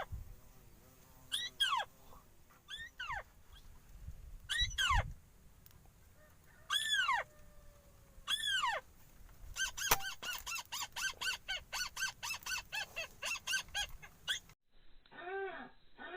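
Bird calls: single arched calls every second or so, then from about ten seconds in a fast run of roughly four calls a second. Near the end the sound changes abruptly and the calls continue more muffled.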